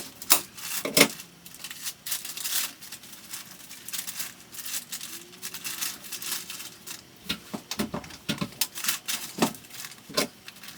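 Irregular sharp clicks, taps and knocks with light rustling in between, from hands-on work with building materials in a small room.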